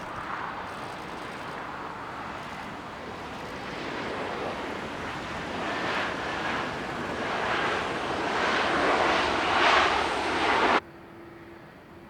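Jet airliner engines growing steadily louder over about ten seconds as the aircraft passes close, then cut off abruptly near the end.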